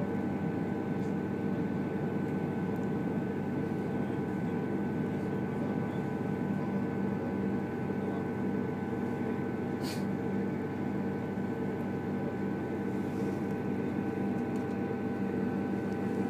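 Steady hum inside a diesel passenger train carriage, with several constant whining tones over it; a single sharp click about ten seconds in.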